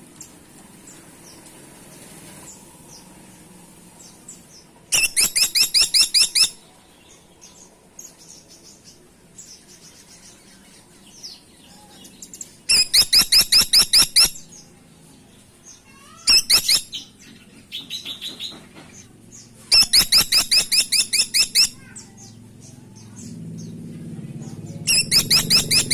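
Caladi tikotok (grey-and-buff woodpecker) calling in loud bursts of sharp, quickly repeated high notes, about six a second. There are five bursts of one to two seconds each, with faint chirps in the gaps.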